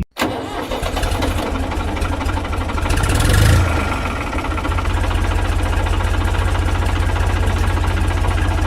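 Tractor engine running with a rapid, even knock, swelling louder for a moment about three seconds in.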